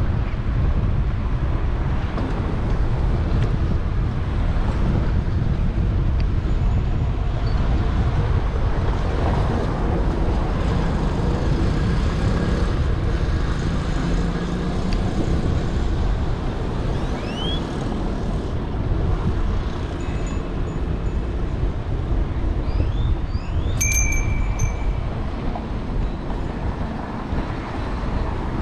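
Wind rumbling on a bicycle-mounted action camera's microphone over steady street traffic during a ride, with a brief high ringing tone near the end.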